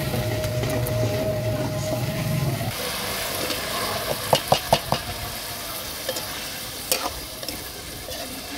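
Meatball slices and young corn sizzling in hot oil in an aluminium wok, with a metal spatula stirring and clinking against the pan, several quick clinks about four to five seconds in and another near seven. A low steady hum fills the first two and a half seconds, then stops.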